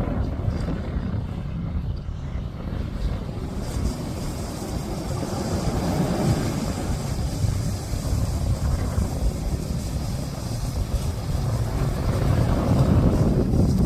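Wind buffeting the microphone, a rough, uneven low rumble that grows louder near the end.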